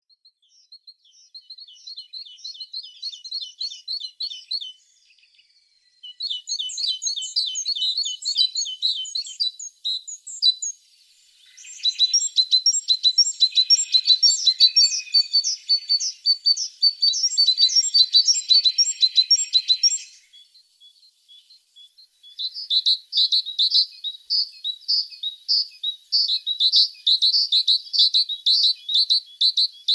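A tit singing: phrases of rapid, high repeated chirping notes, broken by short pauses. The middle phrase is the densest and loudest.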